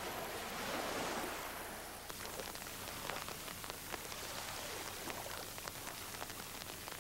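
Light rain pattering: a steady hiss with many small irregular ticks, which become prominent from about two seconds in.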